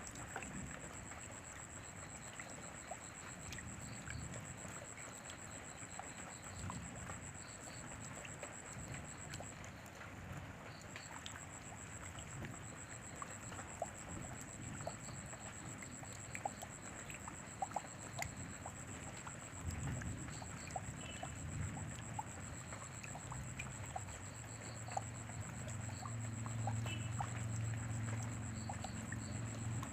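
Steady rain falling, with scattered individual drops ticking on surfaces. A steady high-pitched tone runs under it, and a low rumble builds over the last third.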